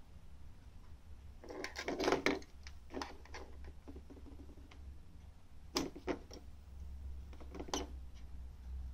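Light clicking and clattering of a plastic motion-sensing toy bird being batted about, in four short bursts, the loudest about two seconds in, over a steady low hum.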